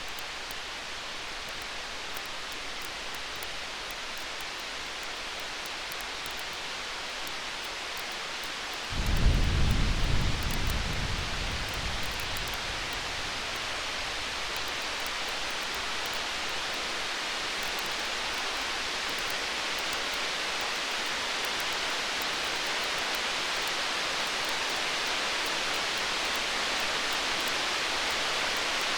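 A roll of distant thunder: a deep rumble that starts suddenly about nine seconds in and dies away over a few seconds, over a steady hiss with faint crackles of a campfire.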